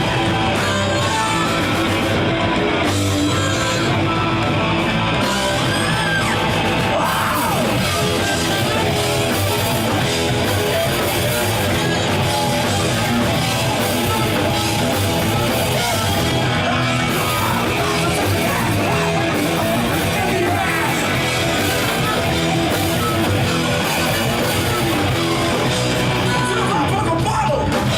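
Live punk rock band playing loud and fast, with distorted electric guitars, bass, drums and a yelled vocal.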